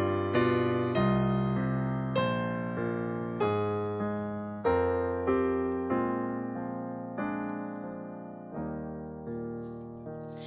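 Piano playing a slow passage of chords, each struck note ringing and fading. The chords come further apart and grow softer toward the end.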